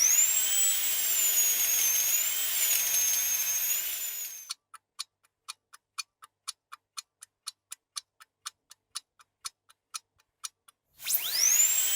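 A high-pitched motor whine, like a small drill, wavering slightly in pitch for about four seconds. It gives way to a clock ticking about four times a second, and the same whine starts again near the end.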